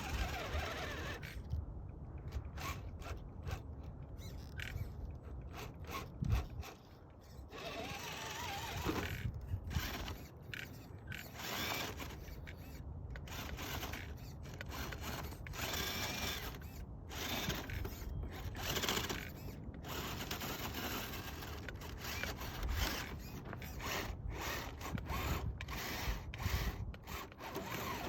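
Axial SCX10 III RC crawler's electric motor and gear drivetrain whirring and grinding as it drives over rough ground, cutting in and out irregularly.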